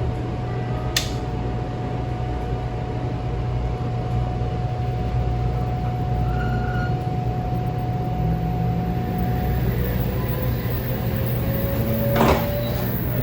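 500 Series Shinkansen VVVF inverter whining over the steady hum of the running train: a held whine stops about two-thirds of the way through and a new tone slowly rises in pitch. A brief loud clatter comes near the end.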